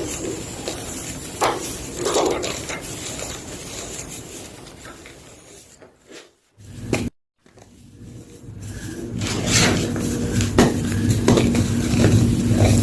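Gym chalk being crunched and crushed in short, scattered crunches and scrapes. There is a brief silent break about six to seven seconds in. After it the crunching is denser and louder, over a faint low hum.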